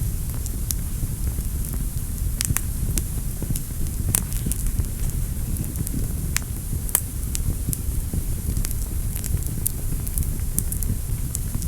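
Fire burning in a fireplace: a steady low rumble with irregular sharp crackles and pops throughout, a few of them louder.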